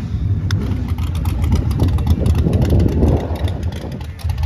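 A vehicle engine running at idle and low revs, a steady loud rumble.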